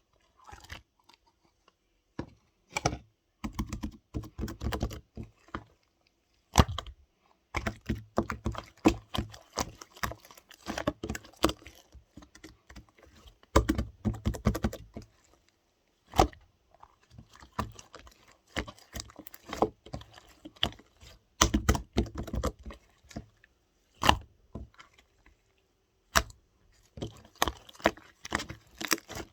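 Hands squishing and poking slime, giving bursts of dense clicking and crackling with short pauses between them.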